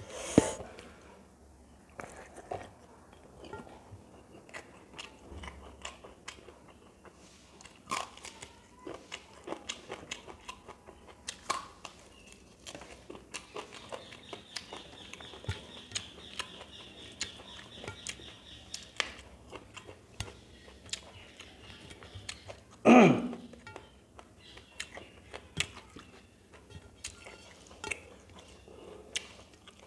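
Close-up mouth sounds of a person eating rice and curry by hand: chewing and wet smacking clicks, with a bite of raw green onion or chilli. About 23 seconds in there is one short, loud sound that falls in pitch.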